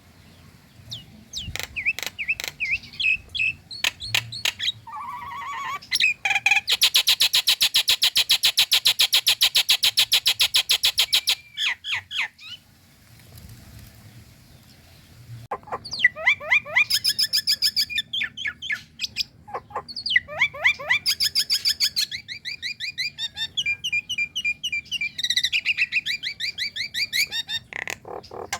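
Female Nias hill myna calling: loud whistles and sharp clicks, then a long, fast rattling trill a few seconds in. After a short pause come bursts of quick repeated whistled notes.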